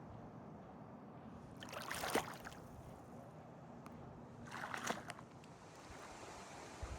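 Two splashy paddle strokes in lake water, about three seconds apart, over a faint steady outdoor background.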